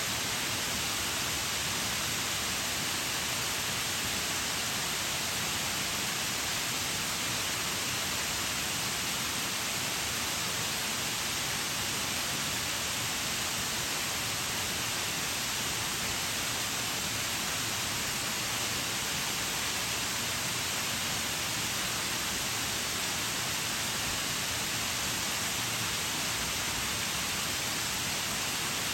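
Waterfall pouring steadily: an even, unbroken hiss of falling water, with no separate splashes standing out.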